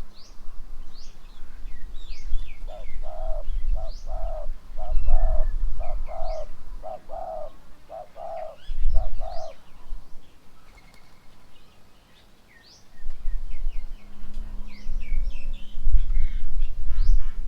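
Birds around a garden bird table: one bird gives a series of about a dozen short low hooting notes, roughly two a second, that stops about two-thirds of the way through, while small birds chirp and twitter throughout. A low rumble comes and goes under them and is loudest near the end.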